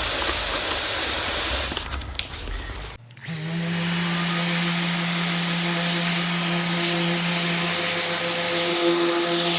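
Dual-action orbital sander with a 320-grit disc on a soft interface pad, sanding filler and paint on a plastic bumper, feathering the edges of a repair. It is a steady hiss at first, then after a short drop a steady motor hum under the sanding hiss.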